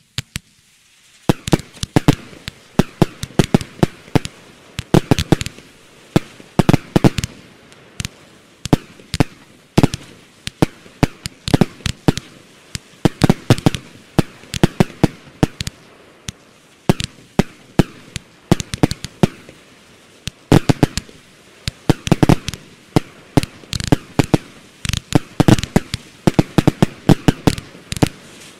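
Nydia 16-shot consumer firework battery (cake) going off: a rapid, continuous run of sharp cracks and pops in clusters over a hiss, starting about a second in.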